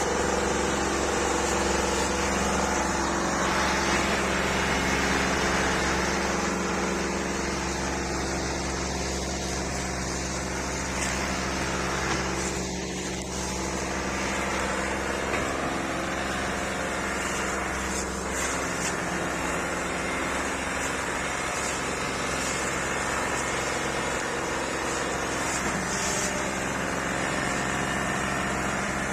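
Old Massey Ferguson tractor's diesel engine running steadily at an even pitch.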